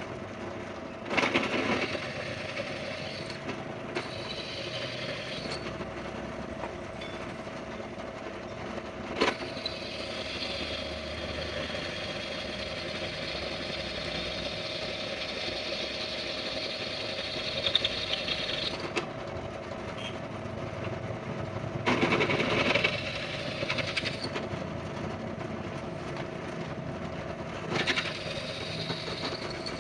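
A machine runs with a steady hum through the whole stretch. Louder, harsher bursts of tool work come over it about a second in, through a long stretch in the middle, again past the two-thirds mark and once near the end.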